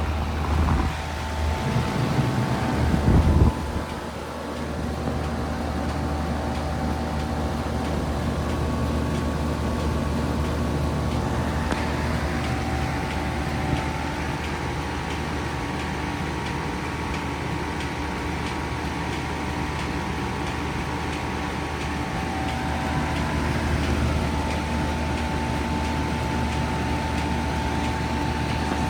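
Lasko Power Plus heat pump running steadily in heat mode: a constant hum with a few steady tones, with a louder rough rumble in the first few seconds. Its coil is iced up and the airflow is weak, as it heads toward a defrost cycle.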